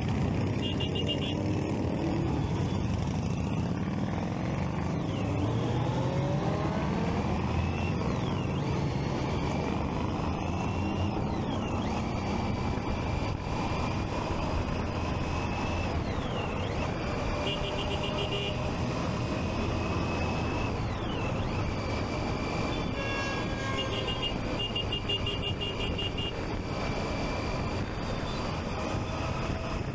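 Triumph Street Triple 675 inline-three motorcycle engine running under way, its pitch rising and falling as it is ridden through the gears, over steady road and wind noise. Short bursts of rapid high beeping come and go several times.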